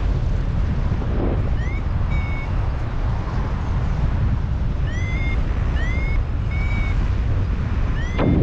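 Strong wind buffeting the microphone during a paraglider flight, a steady low rumbling rush. Short high chirps, each rising then holding, come through it a few at a time at irregular moments.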